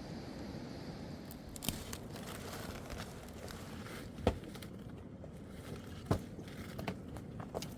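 Scattered sharp knocks and clicks, the loudest about four seconds in and again about six seconds in, over a steady low background noise.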